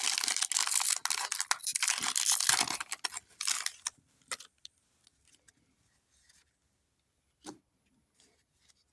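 Foil booster pack wrapper being torn open and crinkled for about four seconds, then a few faint clicks and a single soft knock.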